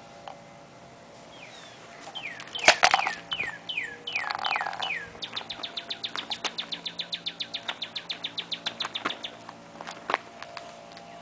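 Songbirds calling: a string of falling whistled notes, then a long, fast trill of about ten high notes a second lasting around four seconds. A single sharp click near the loudest point, about a third of the way in, and a short harsh call just before the trill.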